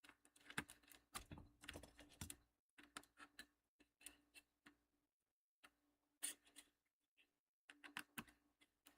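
Faint, irregular small clicks and taps of a screw being tried in a laptop's plastic bottom case and of tools and parts being handled, with a short lull about halfway through.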